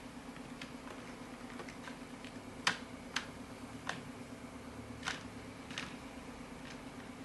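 Irregular sharp clicks and taps, about six spread over a few seconds, the first and loudest under 3 seconds in, over a steady low hum.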